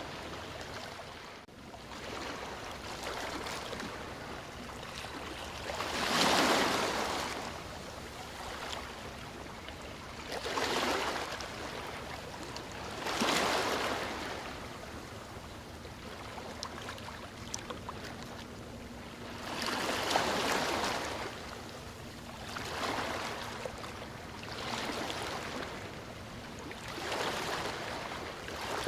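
Sea waves breaking and washing up the shore, the surf swelling and falling back every few seconds, the loudest surge about six seconds in.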